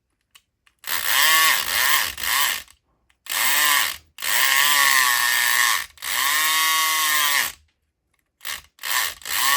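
SouthOrd E500XT electric lock pick gun fired in repeated trigger pulls into a pin-tumbler padlock's keyway. Each pull is a buzzing whir that rises and falls in pitch, some brief and two lasting about a second and a half. It is trying to bounce the pins of a lock fitted with security pins, which stays caught in a false set.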